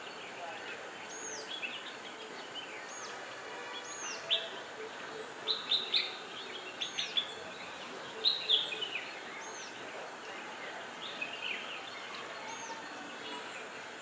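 Wild songbirds calling: a thin, high arched whistle repeats every second or two, with several bursts of louder chirps between about four and nine seconds in.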